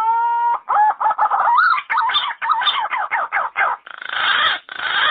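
Yellow-footed green pigeon calling: a held whistle breaks into a quick run of wavering, warbling notes, then turns to longer, harsher phrases near the end.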